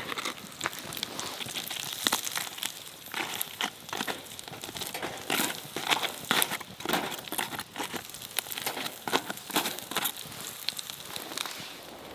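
Crinkling and rustling, as of plastic or paper packaging being handled, with dense irregular crackles that stop near the end.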